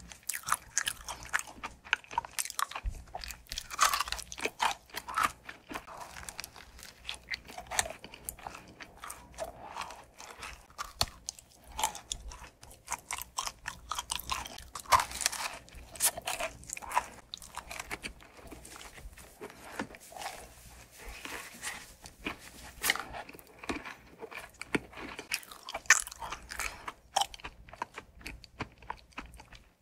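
Close-miked chewing and biting of food, with irregular crisp crunches, a few of them louder.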